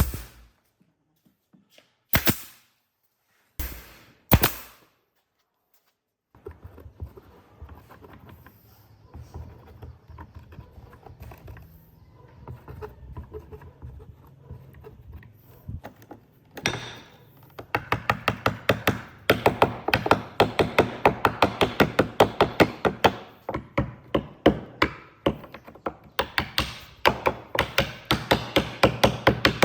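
Wood being struck: a few separate knocks, then from a little past halfway a fast, even run of strikes, about three or four a second.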